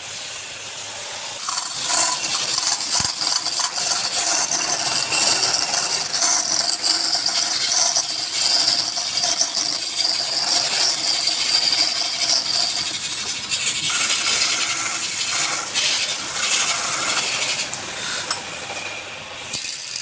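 Wood spinning on a lathe while a turning tool or abrasive works its surface. The sound is a steady hissing scrape with a faint hum, and it picks up about a second and a half in.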